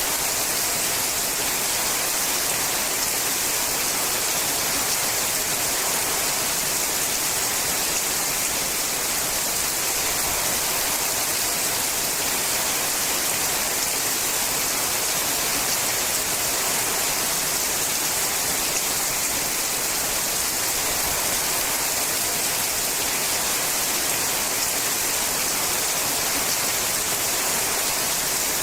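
Steady rain falling on a sheet-metal roof, a dense, even patter.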